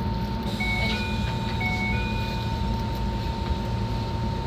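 Enoden electric train running: a steady rumble with a thin, steady whine. Twice, about a second apart, a short two-note electronic beep rises in pitch.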